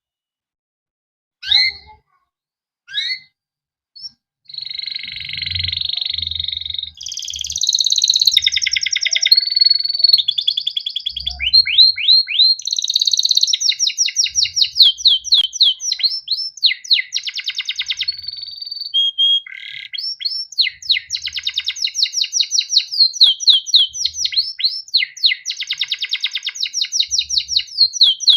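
Male canary singing: a few separate chirps, then from about four seconds in a long unbroken song of rolling trills and fast, repeated down-slurred notes.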